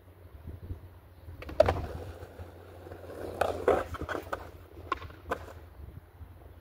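Skateboard rolling with a steady low rumble of the wheels, broken by sharp clacks of the board: the loudest about a second and a half in, a quick cluster in the middle, and two more near the end.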